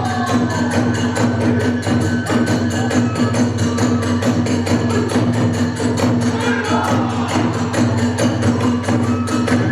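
Kagura festival music: drums and small hand cymbals beating a fast, driving, even rhythm, with a pitched melody line gliding over the top.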